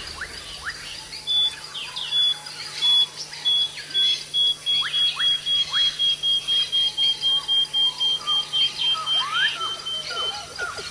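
Birds calling in tropical forest. One caller gives a long run of short, high, evenly spaced notes, about three a second, that sink slightly in pitch before stopping near the end. Other quick whistled calls rise and fall around it, growing busier toward the end.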